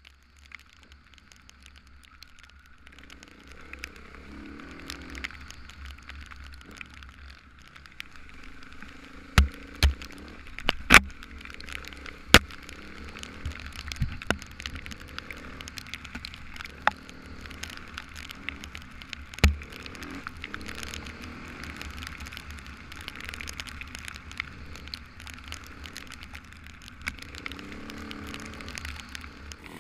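Riding noise on a motorcycle-mounted camera: a steady rumble and rush of wind and road, with several sharp knocks standing out, the loudest bunched around ten seconds in and another near twenty.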